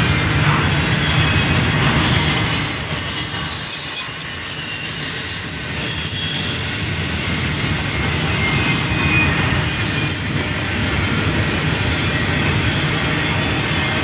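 Double-stack container train's well cars rolling past on the rails, a steady rumble and rattle of wheels and couplers. Thin high wheel squeals come and go, a few seconds in and again near the middle.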